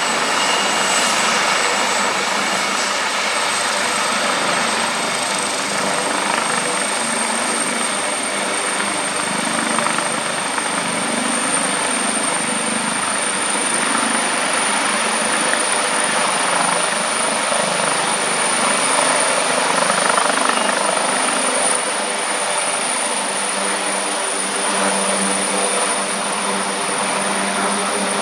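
Emergency helicopter running, a loud steady engine and rotor noise with a high turbine whine that slowly rises in pitch.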